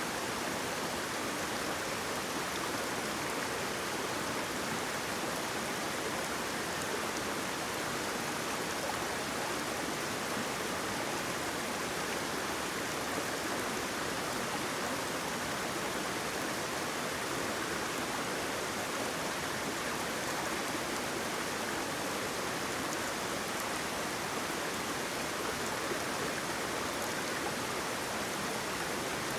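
Water pouring steadily over a small waterfall, a constant, even rushing hiss with little deep rumble.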